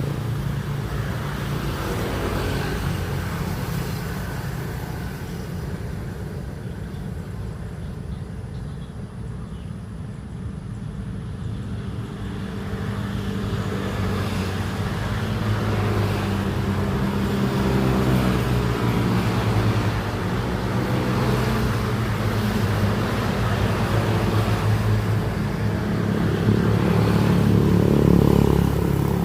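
A steady engine running, with a low hum that grows gradually louder over the second half.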